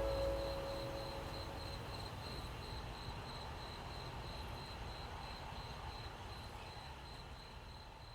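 Cricket chirping in a steady pulsed trill, about four pulses a second, over a faint hiss, slowly fading out as the countryside-ambience tail of the background music track.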